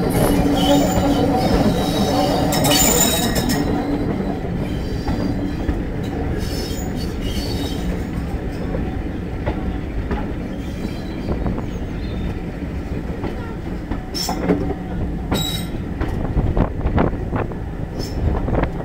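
Onboard running noise of a 2-EPB electric multiple unit carriage rolling along the track: a steady rumble and rattle of wheels and bodywork. A faint tone over it fades after the first few seconds, and a few sharp clicks come near the end.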